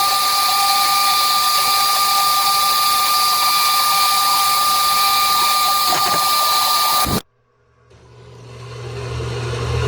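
Harbor Freight bandsaw cutting through a steel hydraulic-cylinder link: a steady grinding hiss with a high whine over it, which stops abruptly about seven seconds in, followed by a low hum building near the end.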